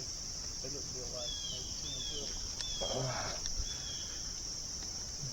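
Steady high-pitched insect chorus of crickets, with a few short falling chirps and a brief rustle about three seconds in.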